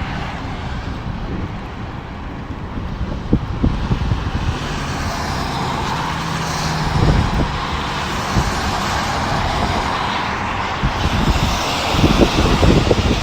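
Steady rain, with irregular low rumbles that grow heavier near the end.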